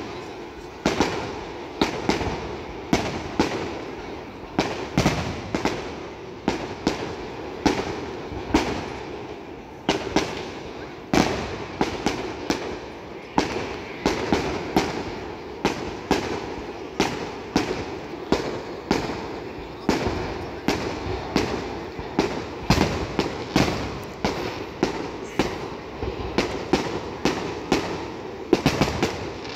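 Aerial fireworks bursting in a continuous barrage: sharp bangs about one to two a second, each trailing off in a short echo.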